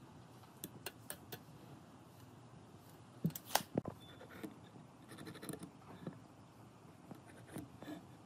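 Scattered light clicks and taps of small handling sounds, with a cluster of sharper, louder clicks about three and a half seconds in.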